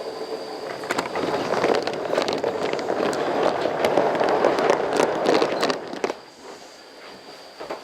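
Coal-fired steam locomotive letting out a loud rush of steam with crackling through it, which builds for about five seconds and then cuts off suddenly.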